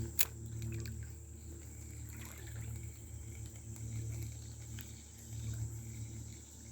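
Outdoor river-bank ambience: a steady high insect drone, most likely crickets, over a low, swelling rumble, with one sharp click about a quarter second in and a few faint ticks after.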